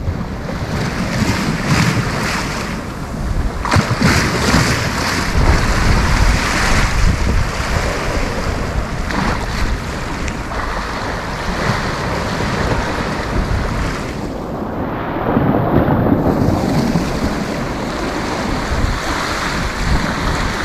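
Sea surf breaking and washing on a beach, with wind buffeting the microphone and adding a heavy rumble.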